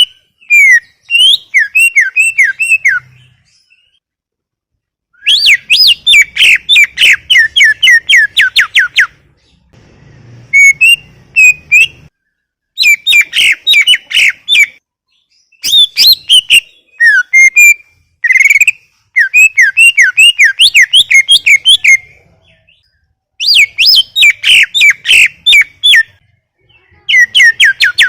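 Cucak ijo (greater green leafbird) singing in full song: phrase after phrase of rapid, sharply falling whistled notes, each burst lasting a few seconds with short pauses between.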